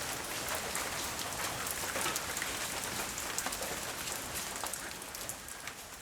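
Steady rain falling, a constant hiss with the patter of individual drops hitting a surface, fading out toward the end.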